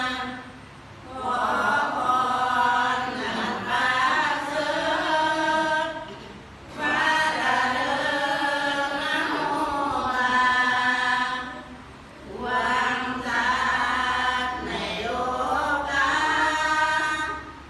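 Buddhist chanting by a group of voices in unison, in steady, drawn-out phrases of about five seconds with short breath pauses between them.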